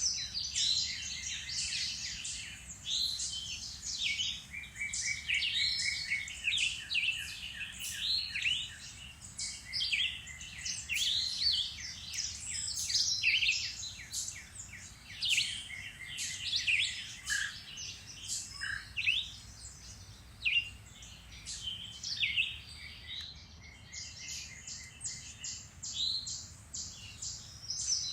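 Woodland songbirds singing and calling over one another, a dense chorus of chirps, short trills and rapid runs of repeated notes.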